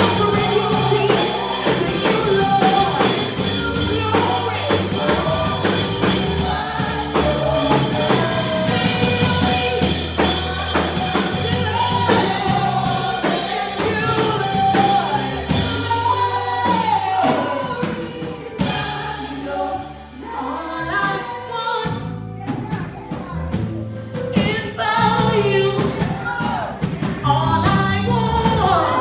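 Live gospel worship music: voices singing a melody over bass and a drum kit, with the band thinning out for a few seconds past the middle before coming back in.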